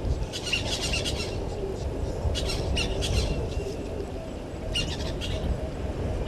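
Birds calling in three short bursts of high calls, over a steady low rumble.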